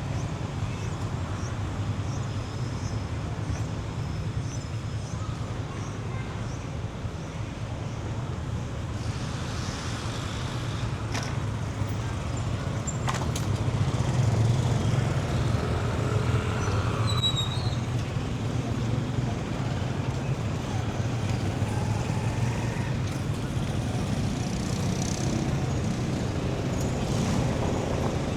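City street traffic: motor vehicle engines running and passing in a steady low rumble that grows louder about halfway through, with a couple of sharp clicks.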